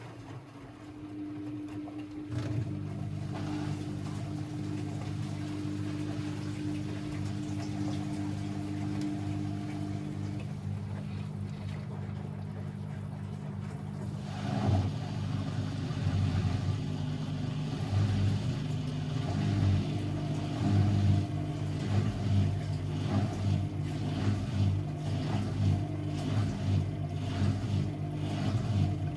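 Constructa Energy 1000s washing machine running, its drum motor humming steadily. It picks up about two seconds in and grows louder about halfway through, with an uneven pulsing after that.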